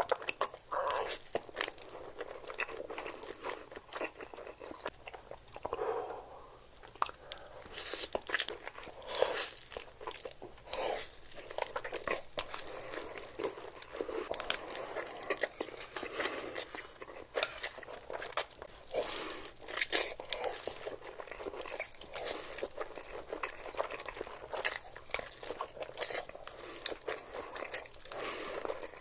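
Close-miked eating: a person chewing and biting food, with a dense, irregular run of small wet clicks and crunchy smacks, and a brief lull about six seconds in.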